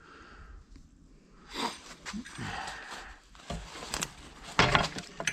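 A man breathing hard and sniffing while working, then several sharp knocks near the end as parts of a corn head's row unit are handled.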